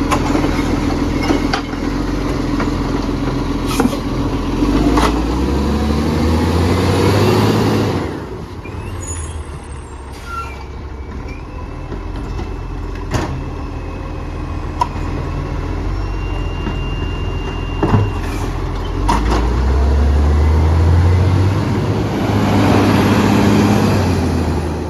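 Garbage truck's diesel engine running and revving up twice, climbing in pitch for a few seconds each time and dropping back to a lower, quieter run in between, with a few sharp clanks.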